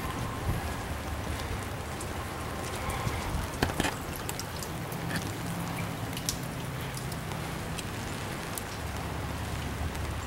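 Steady rain falling, with individual drops tapping sharply close by, a cluster of louder taps a little under four seconds in, over a low rumble of wind.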